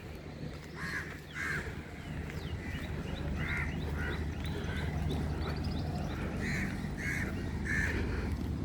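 Crows cawing repeatedly in short runs of two or three caws, over a low steady rumble that grows slowly louder.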